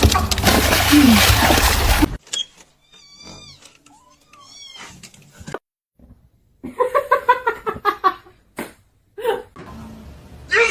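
Domestic cats meowing: a loud, noisy stretch for about the first two seconds, then a run of high, sliding mews, then a quick series of louder calls.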